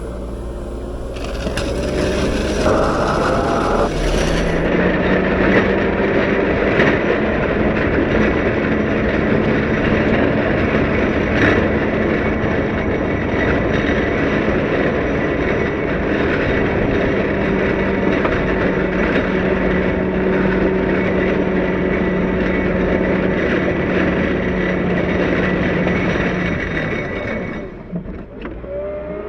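CAT 908 compact wheel loader's diesel engine working under load, with a steady hum that climbs in pitch a few seconds in, while its steel snow pusher scrapes and rattles over the ground. The scraping starts about a second in and stops shortly before the end.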